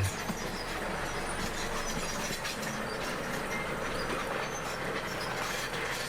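Crawler bulldozer working, with a steady clatter from its steel tracks over the sound of the machine.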